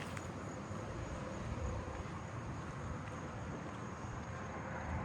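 Crickets trilling steadily in one continuous high-pitched trill, over a low background rumble.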